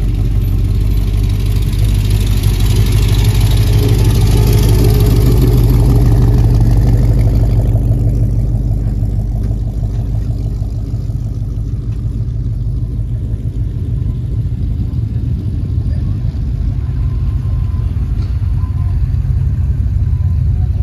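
Engines of classic cars and an old pickup running at low speed as they drive past one after another, a low steady rumble throughout. The loudest pass is a few seconds in, with a rising hiss over the rumble that fades away by the middle.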